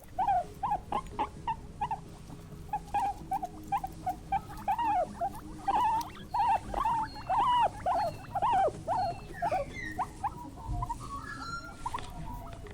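A small animal squeaking in quick runs of short, arching squeaks, several a second. The squeaks thin out to softer, higher chirps about ten seconds in.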